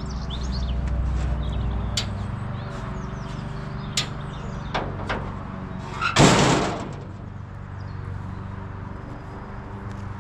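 1967 JCB 3C Mk2 backhoe loader's diesel engine idling steadily after a cold start, with a few sharp knocks and one loud bang about six seconds in.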